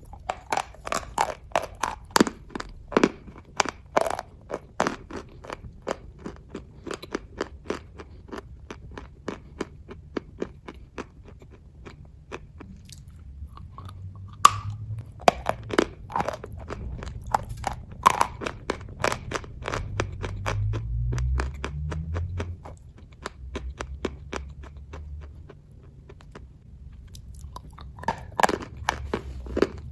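Chewing and biting kaju katli (cashew fudge): a steady run of sharp mouth clicks, several a second. A low rumble joins in around the middle.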